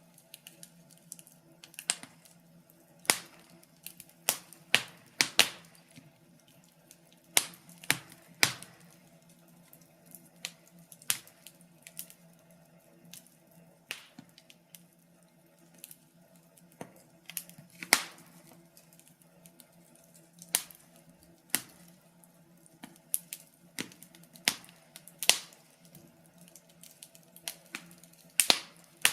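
Wood fire crackling in a fireplace: irregular sharp pops and snaps of burning logs, some much louder than others, over a faint steady low hum.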